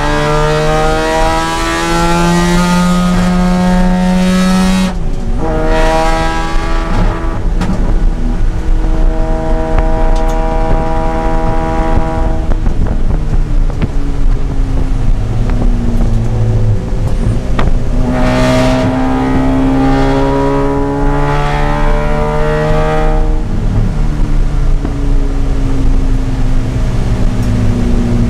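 Mazda RX-8's two-rotor rotary engine under hard acceleration, revving up through the gears, with a sharp break in pitch about five seconds in. It then winds down through the middle and climbs again in the second half.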